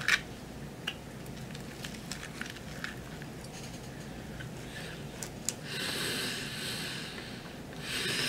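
Quiet mouth sounds of a man chewing fried chicken: scattered small clicks and smacks, then one long noisy breath about six seconds in.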